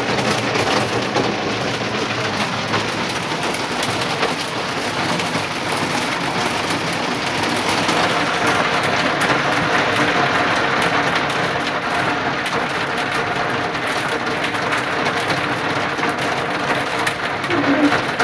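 Heavy rain pouring down steadily, a dense patter of drops on surfaces.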